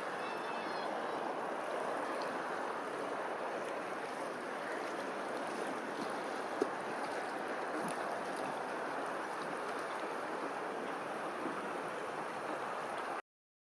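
Steady rushing of flowing water, with a few faint high chirps in the first second. It cuts off suddenly just before the end.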